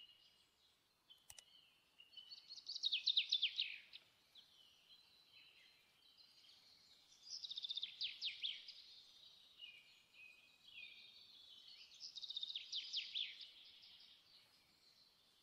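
A songbird singing: three bursts of quick, falling chirps a few seconds apart, with softer twittering between them. A faint click about a second in.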